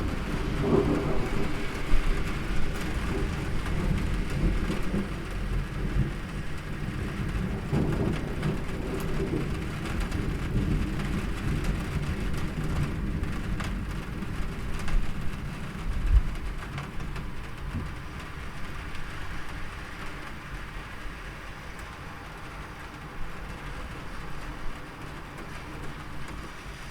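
Steady rain with a long, low rumble of distant thunder that is strongest in the first half and slowly dies away, with scattered sharp drop ticks.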